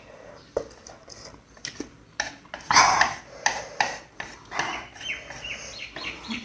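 Close-up eating of spicy noodles: irregular wet chewing and mouth sounds in short bursts, mixed with small sharp clicks.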